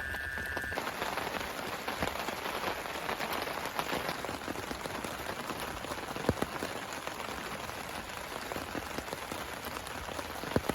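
Steady rain, with many drops hitting a surface and a few louder single drops about six seconds in and near the end. A steady high tone and a low hum stop under a second in.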